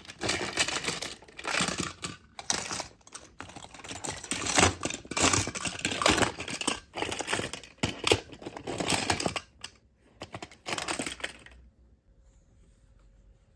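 A rapid, uneven run of clicks and taps, like fast typing, that stops suddenly about twelve seconds in, leaving a quiet room with a faint steady hum.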